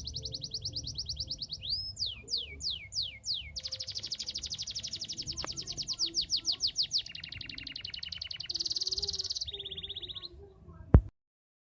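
Domestic canary singing in full song: long runs of rapid, high trills that change speed and pitch every second or two, with a string of five quick descending whistles early on. Near the end a sharp click is heard and the sound cuts off abruptly.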